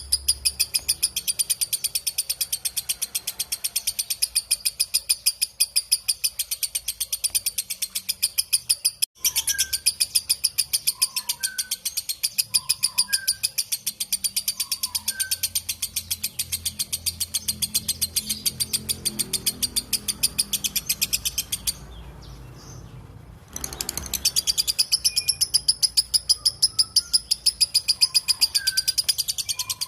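Lovebird giving its long ngekek chatter, a fast unbroken stream of high, rapidly repeated notes. It breaks off for an instant about nine seconds in, goes quiet for about two seconds past the twenty-second mark, then starts again. Fainter, lower chirps from another bird come in now and then.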